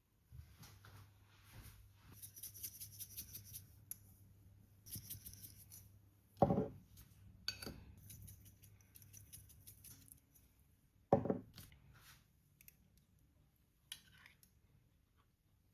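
Kitchen handling sounds: two runs of quick, rapid clicks in the first half, then two loud knocks of something hard set down, about six and eleven seconds in, with a few lighter clicks after. A low steady hum runs underneath for most of it.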